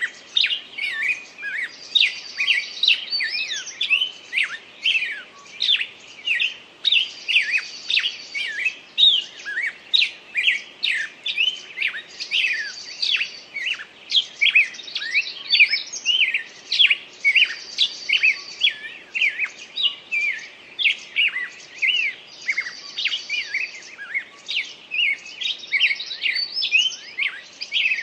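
Dense chorus of many small songbirds chirping and whistling, with quick rapid notes throughout. The same pattern repeats about every five seconds, as a looped birdsong recording would.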